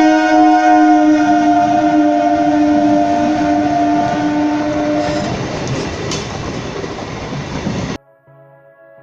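Train horn sounding one long steady blast that stops about five seconds in, leaving the rumble of the train running on the rails. Near the end the sound cuts off abruptly to electronic music.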